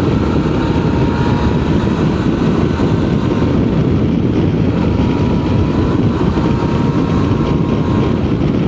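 Suzuki V-Strom 650's V-twin engine running steadily under way, heard from the rider's own bike over a dense low rumble, with a faint steady whine above it.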